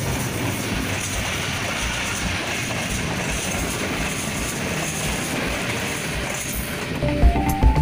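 Passenger train coaches passing close by at speed: a steady rushing noise of wheels on the rails. Music comes in near the end.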